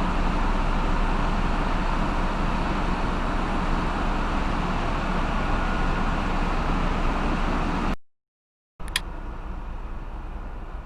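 Ship's engine-room machinery running: a steady loud drone with a low hum. After about eight seconds the sound cuts out briefly and comes back as a quieter steady machinery noise with a single click.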